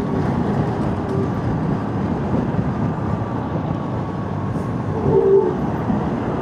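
Motorcycle riding over a rough, potholed road: steady engine, tyre and wind noise, with a brief short tone about five seconds in.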